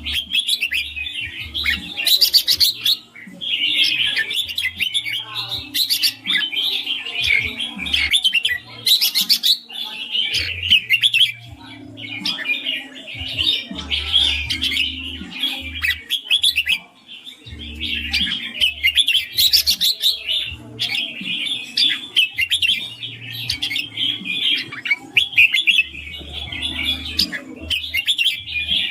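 Red-whiskered bulbul singing in quick, bubbling chirpy phrases, one phrase after another with short pauses between. A low rumble comes and goes underneath.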